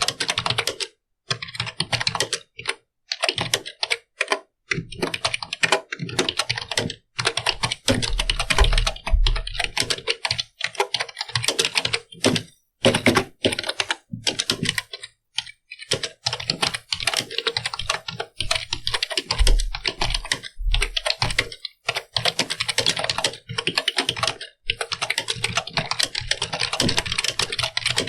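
Computer keyboard being typed on in fast runs of keystrokes, broken by short pauses every few seconds. A low thud comes twice, about eight and twenty seconds in.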